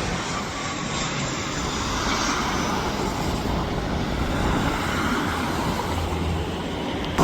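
Jet airliner engines running, a steady rushing noise with a low rumble underneath.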